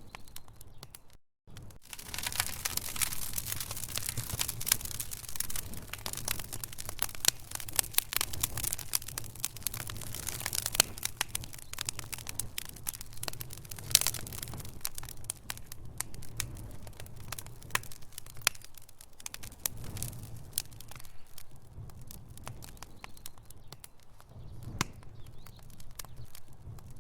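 Wood fire burning in a fireplace: dense sharp crackles and pops over a low steady rumble, busiest in the first half and thinning later. There is a brief silent gap about a second in.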